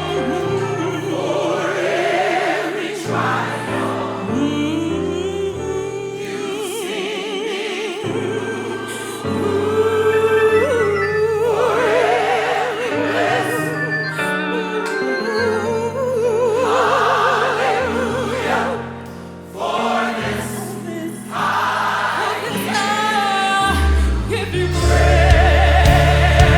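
Gospel choir singing with vibrato over sustained low band accompaniment, which gets louder near the end.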